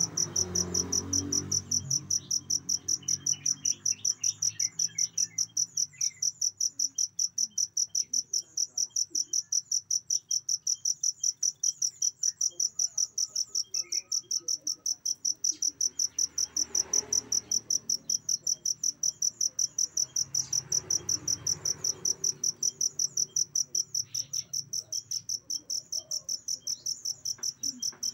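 Cricket chirping steadily: a high, even chirp repeated about three to four times a second without a break.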